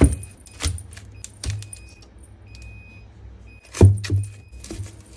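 Items being handled and put into a refrigerator: a series of sharp knocks, clicks and rattles of packages and containers, the loudest about four seconds in.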